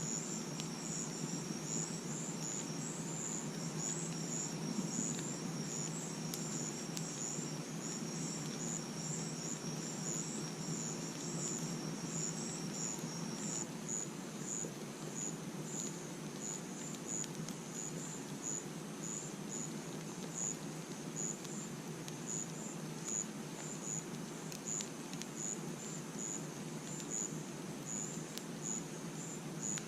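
Crickets chirping at night: a steady string of short high chirps, with a second, continuous high trill that stops about halfway through. Underneath runs a low steady rustle of the campfire with a few faint crackles.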